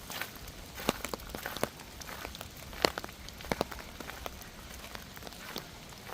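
Rain falling steadily, with irregular sharp taps of drops landing close by.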